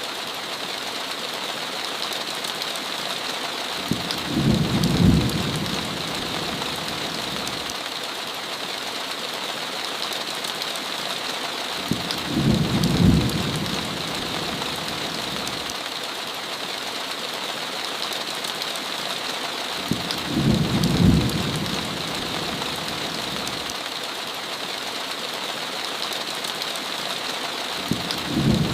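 Steady heavy rain, with a short low rumble about every eight seconds, four times, each louder than the rain.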